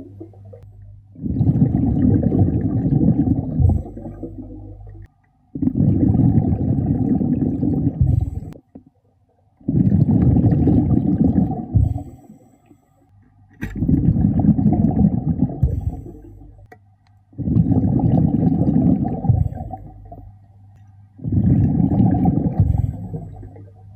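Underwater breathing of a diver: bubbles from the regulator's exhaust rumble and gurgle past the microphone with each exhalation. The rhythm is steady, a long bubbling burst about every four seconds, six in all, with quiet inhalations between.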